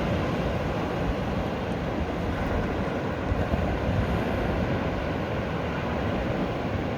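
Steady rushing noise with a heavy low rumble, as heard aboard a boat under way: wind and water noise on the microphone.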